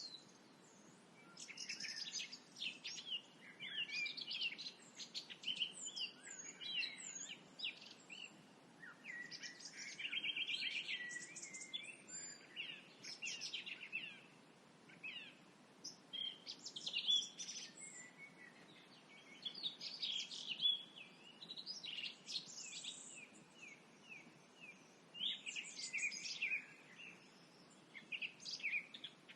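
Several songbirds singing at dusk in phrases of whistles and trills that come every second or two with short pauses, over a faint low hum of background noise.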